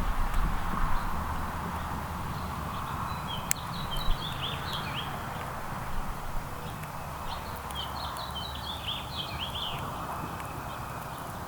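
A small songbird singing two short phrases of quick, high notes, about three and a half and seven and a half seconds in, over a steady outdoor background hiss.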